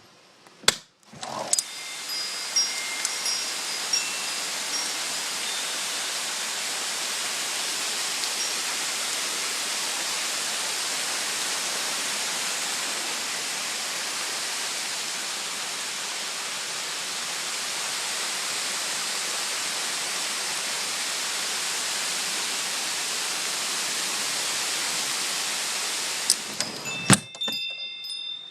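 Hail coming down hard, a loud steady hiss of countless small impacts that comes in abruptly after a click and a knock about a second in and drops away after a few knocks near the end. Wind chimes ring faintly through it near the start and the end.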